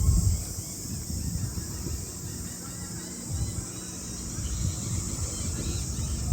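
Steady high-pitched insect chirring, with low, uneven wind rumble on the microphone.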